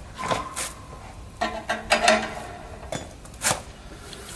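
Metal wrench clanking and knocking on the wheel nuts as they are tightened, a handful of separate clanks, some with a brief metallic ring, the longest of them about a second and a half in.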